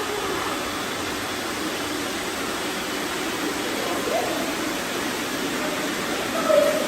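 Steady whirring hiss of many robot vacuums running at once, cleaning up confetti.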